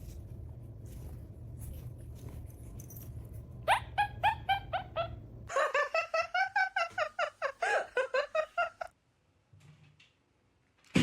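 An animal calling in quick runs of short, high, pitched yelps: a first run about four seconds in, then a longer, faster run, stopping abruptly about nine seconds in. A steady low hum lies under the first half.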